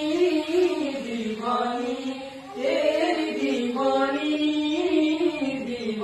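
Music: a sung vocal line holding long, sliding notes without clear words, dipping briefly about two and a half seconds in before the next phrase.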